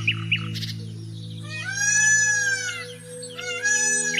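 Peacock calling: one long, loud, wailing cry about two seconds in and a shorter one near the end. Sparrows chirp briefly at the start over a steady low hum that fades out about a second in.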